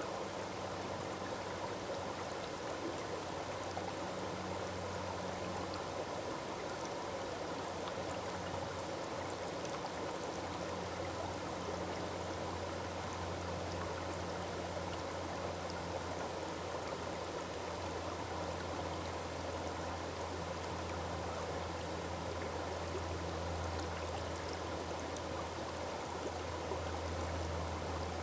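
Waterfall water rushing and splashing steadily, an unbroken even wash of sound with a deep low rumble beneath it.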